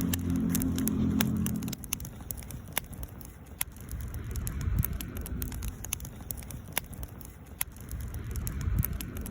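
Wood campfire crackling, with sharp irregular pops over a low rumble of the burning fire. A steady low hum sounds for about the first two seconds, then stops.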